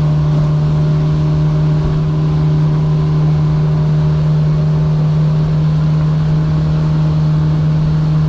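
Small fishing boat's engine running steadily under way, a constant drone.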